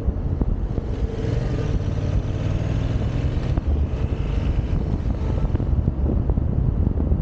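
Wind buffeting the microphone over the Yamaha XSR700's parallel-twin engine during a ride, with the engine coming through more clearly for a few seconds in the middle.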